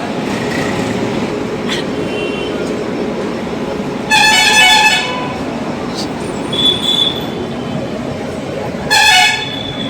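Steady traffic noise with two vehicle horn honks, the first nearly a second long about four seconds in, the second shorter near the end, and a brief high beep in between.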